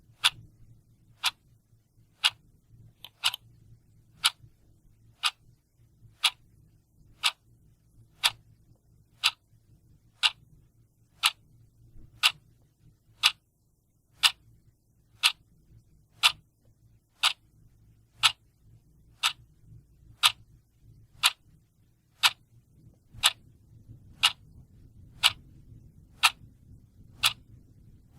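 Clock ticking steadily, one sharp tick a second, over a faint low hum.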